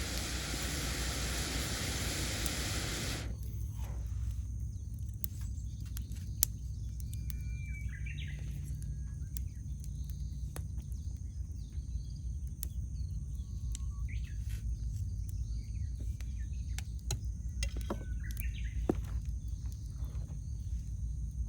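Wood campfire crackling, with scattered sharp snaps and two louder pops, while birds call a few times in short phrases. A broad hiss covers the first three seconds and then stops.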